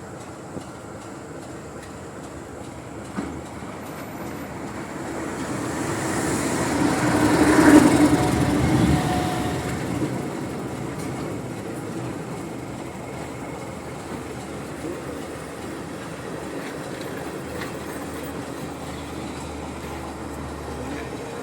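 A diesel train passing close by: its rumble builds to a peak about eight seconds in, then fades back to a steady lower rumble.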